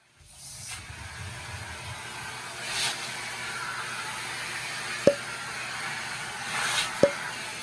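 Vacuum cleaner running steadily with a hissing rush that swells briefly three times, and two sharp knocks about five and seven seconds in.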